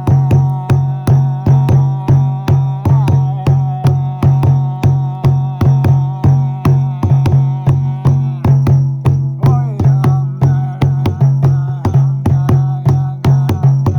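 Meditative music: a frame drum beaten steadily, about three strikes a second, over a sustained low drone and a held higher tone.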